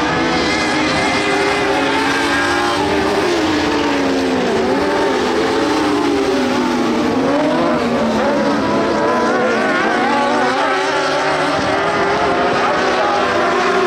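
Several dwarf race cars' motorcycle engines running hard at once, their pitches sliding down and back up as the cars lift and get back on the throttle, with a clear dip about four to five seconds in and another around eight seconds.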